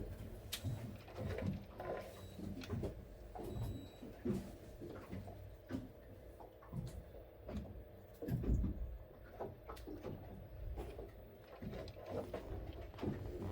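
Irregular soft knocks and thumps of fishing gear and objects being handled in a small enclosed cabin, over a steady low hum.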